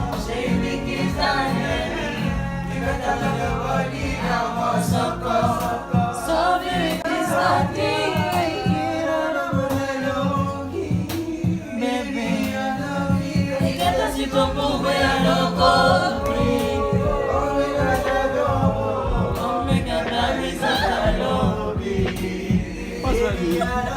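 Several voices singing together in harmony over a backing track with a steady beat.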